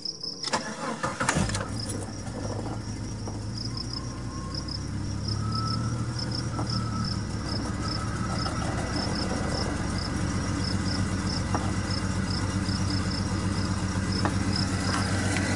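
Jeep Cherokee XJ 4.0-litre inline-six engine cranking briefly, catching about a second and a half in, then running at a steady idle. This is its first start on newly fitted four-hole fuel injectors.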